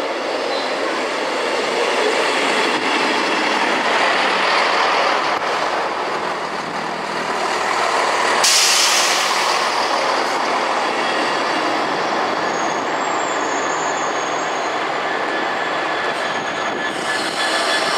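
Train moving along the track: a steady wash of wheel-and-rail noise, with a sudden loud hiss starting about eight and a half seconds in and faint thin high tones in the second half.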